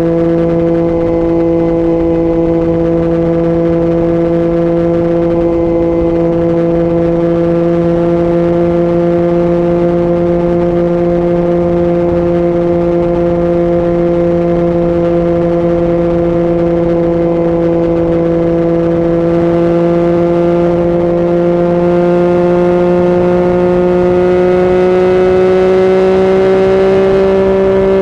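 Yamaha MT-09 inline-three engine through an Akrapovic exhaust at steady cruising throttle, its note holding one pitch and climbing slightly near the end as the revs rise, with a low rumble of wind and road noise underneath.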